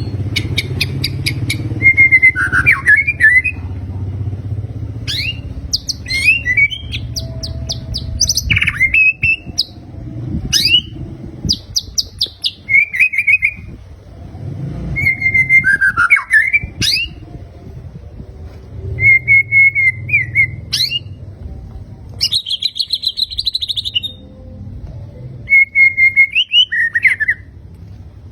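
White-rumped shama (murai batu) singing a varied song of clear whistled phrases mixed with fast chattering trills, with a harsh buzzing burst a little past the middle. A low hum runs underneath for much of it.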